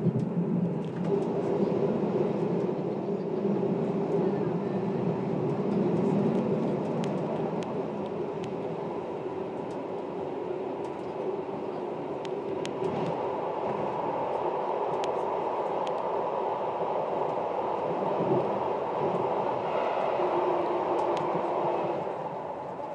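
Electric passenger train running through a rock tunnel, heard from the driver's cab: a steady rumble with a few faint clicks from the wheels on the rails.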